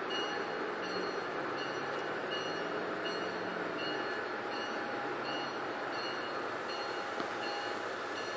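MARC commuter train with bilevel coaches moving slowly through the station, giving a steady rumble. A high ding repeats evenly a little under twice a second over it, like a train's warning bell.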